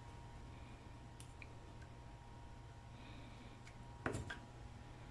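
Faint handling of the FLIR C2 thermal camera's small plastic housing parts: a few light ticks, then a sharper double click about four seconds in, over a low steady hum.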